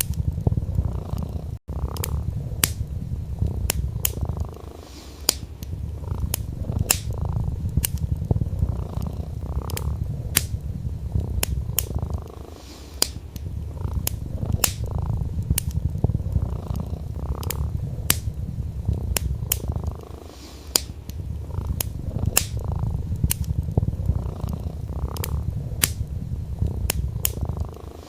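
Domestic cat purring steadily in a low rumble that eases off briefly every eight seconds or so. Over it, a wood fire crackles with frequent sharp pops.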